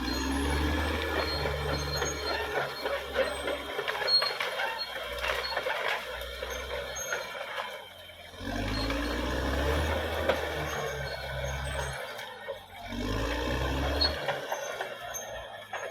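Caterpillar D6R XL bulldozer's diesel engine working, its pitch rising as it revs up three times, with scattered clicks and knocks over its steady rumble.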